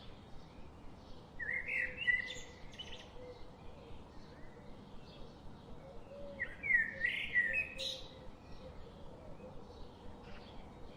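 Bird song: two short phrases of quick, gliding whistled notes, one about a second and a half in and one about six seconds in. Faint chirps repeat evenly in the background.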